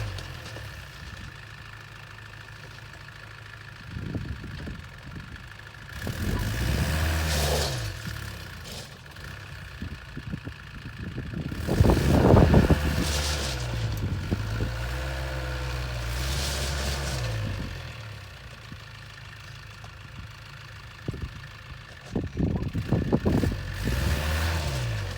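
Land Rover Santana Series II engine running, revving up and falling back several times, loudest about twelve seconds in.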